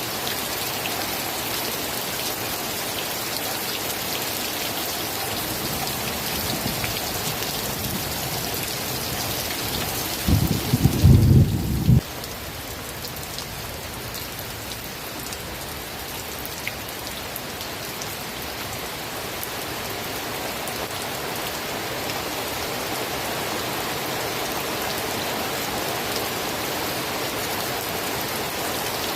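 Steady rain falling. About ten seconds in, a short low rumble of thunder, the loudest sound here, cuts off abruptly, and the rain carries on slightly quieter.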